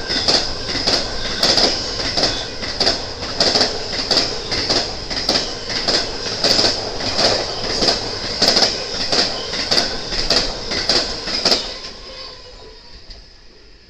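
BNSF intermodal freight train rolling past, its wheels clacking over rail joints in a steady rhythm of a knock or two each second, with a high steady wheel squeal over it. The sound falls away about twelve seconds in.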